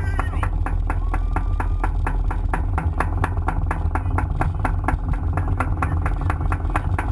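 An engine running steadily at idle, with an even, rapid pulsing.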